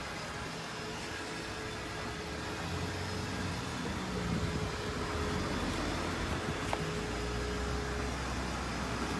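A car running, a steady low rumble with a thin steady hum over it, growing slightly louder a few seconds in.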